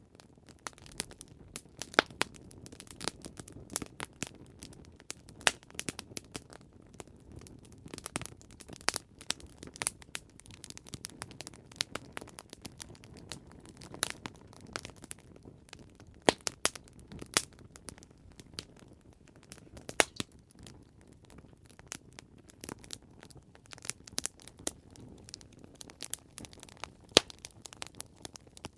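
Wood fire crackling: irregular sharp pops and snaps over a low steady hiss, with several louder pops scattered throughout.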